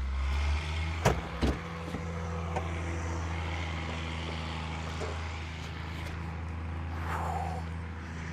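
Tractor engine running steadily with a low, even hum, with a couple of short knocks a little over a second in.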